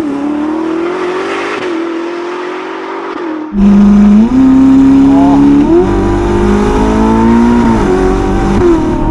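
Ferrari SF90 Spider's 4-litre twin-turbo V8 through a Novitec sports exhaust, heard from the open cockpit. The engine note holds fairly steady, then about three and a half seconds in it turns suddenly much louder and fuller under throttle, its pitch stepping up a couple of times.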